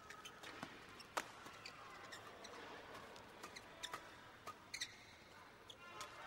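Badminton rally: rackets crack against the shuttlecock at irregular intervals, the loudest hit about a second in, with the short squeaks of shoes on the court and a faint steady hall ambience.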